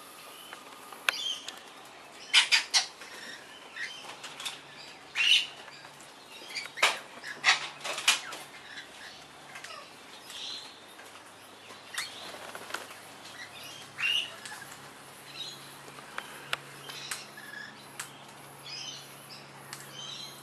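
Wild parrots at a seed feeder: scattered short chirps and squawks, wing flaps, and many sharp clicks and knocks.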